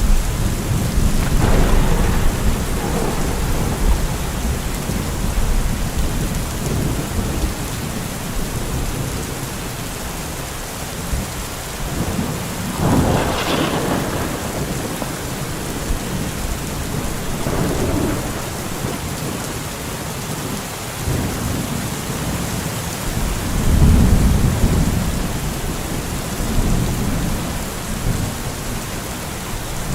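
Steady heavy rain with rolling thunder. Deep rumbles swell in the first few seconds and again about three quarters of the way through, with a sharper crackle of thunder near the middle.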